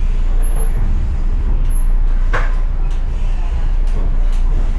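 Steady low rumble of a train heard from inside an old Chicago and North Western gallery commuter car, with a sharp clank about two and a half seconds in and a few lighter clicks after it.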